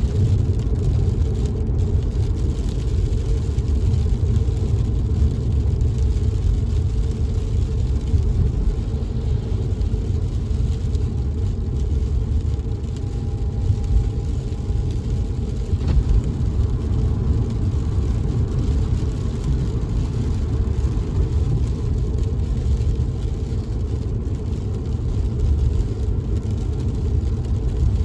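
Steady low road and engine rumble inside a moving car's cabin, with a faint even hiss of rain on the car above it.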